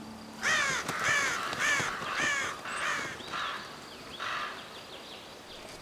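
Ravens calling: a quick run of about five harsh caws, then a few fainter ones.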